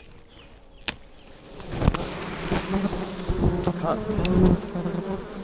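Honey bee swarm buzzing loudly and close, the hum swelling about two seconds in, with a few sharp clicks in among it.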